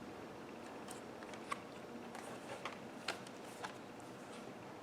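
Faint room tone with a few light, scattered clicks and ticks from a picture book being handled between pages.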